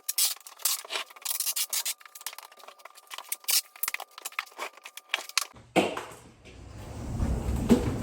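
Adhesive tape being pulled off the roll in long, crackling strips with a thin squeal, as the refrigerator doors are taped shut. About five and a half seconds in it gives way to a lower, rougher scraping noise that grows louder.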